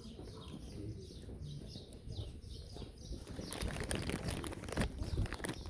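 Small birds chirping in a quick regular series of short falling calls, then about three seconds in a louder crackling rustle of noise takes over.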